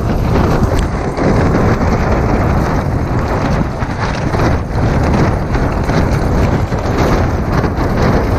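Storm-force wind buffeting a Hilleberg Jannu tent, heard from inside: the fabric shakes and flaps with irregular thumps over a loud, heavy rush of wind.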